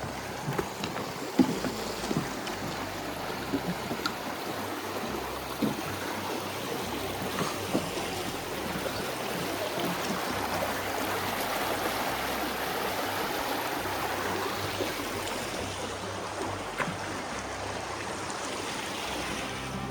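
Brook water running steadily over rocks, a little louder midway, with a few scattered sharp clicks and knocks.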